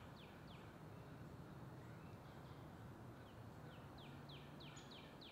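Faint outdoor ambience with a bird singing a series of short falling notes, about three a second: a couple near the start, then a longer run from about three seconds in.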